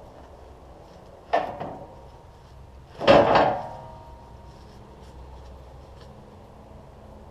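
Two sharp knocks, about a second and a half apart, the second louder and followed by a brief ringing, over a low steady hum.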